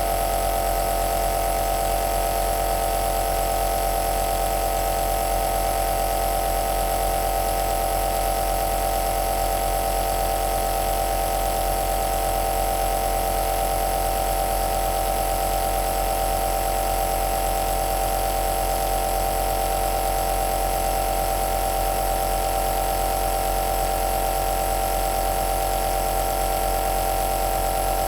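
Compressor nebulizer running with a steady, unchanging mechanical hum.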